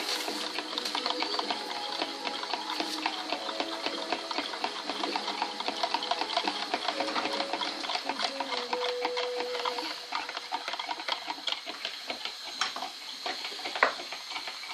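Food frying in a pan, a dense, steady crackling sizzle, with now and then a spoon stirring it.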